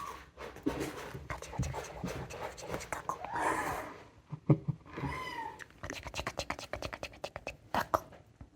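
Kittens meowing, about three short high calls, amid many small sharp clicks and scratching noises of play.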